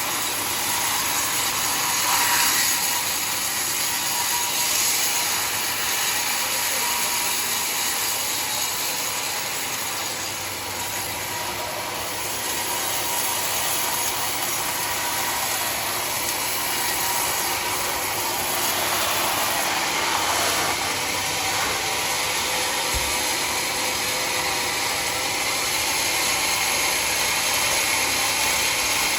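Sawmill blade cutting through mahogany wood, a steady high-pitched mechanical hiss and rasp that eases slightly for a moment partway through.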